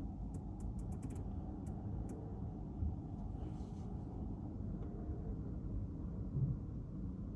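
Car driving in town, heard from inside the cabin: a steady low road and engine rumble, with a few faint light clicks in the first two seconds.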